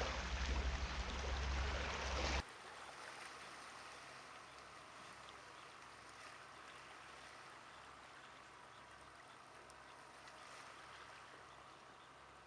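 Sea surf washing on the beach, a steady rush of noise that cuts off abruptly about two and a half seconds in, leaving only a faint steady hiss.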